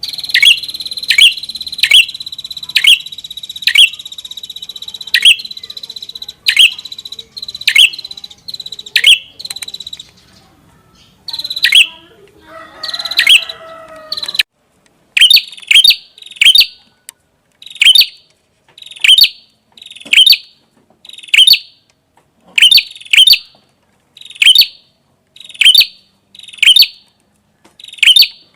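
Prenjak kepala merah (red-headed prenjak) calling rapidly and continuously, with sharp, short notes that drop in pitch, repeated about once or twice a second and often in pairs. A steady high whine runs under the calls for the first ten seconds or so. A lower, wavering sound comes in briefly about halfway.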